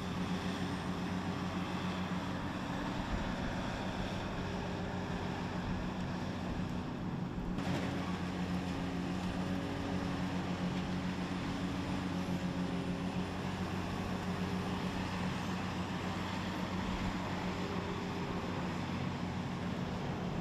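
Car shredder plant machinery running with a steady low hum and noise, changing abruptly about seven and a half seconds in.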